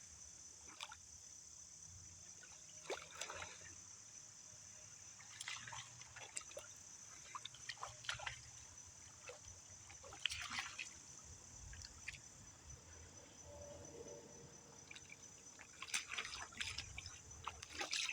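Water splashing and dribbling in short, scattered bursts, the loudest near the end. A steady high insect buzz runs underneath.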